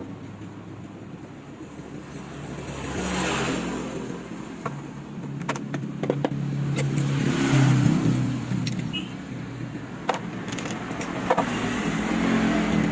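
Road vehicles passing by, three of them in turn, each swelling and fading away, with scattered sharp clicks in between.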